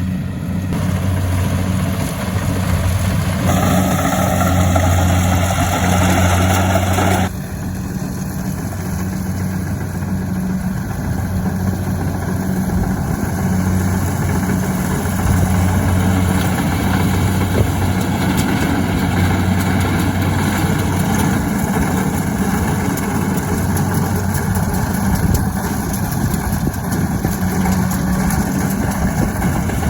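An engine running steadily with a low hum. About seven seconds in, an added higher hiss stops suddenly while the engine carries on.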